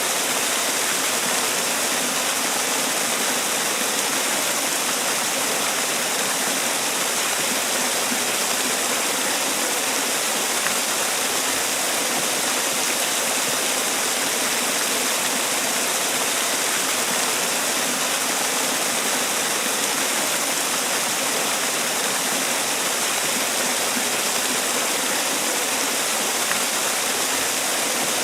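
Man-made waterfall: water falling and splashing in a steady, even rush.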